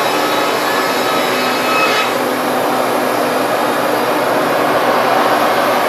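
Sawmill running steadily, a loud, even machine noise. About two seconds in, some higher tones drop away while the steady running noise carries on.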